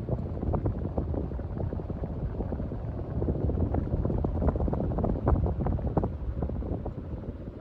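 Hunter Berkeley ceiling fan running, its draft buffeting the microphone in an uneven rush of wind noise with irregular thumps; it falls away near the end.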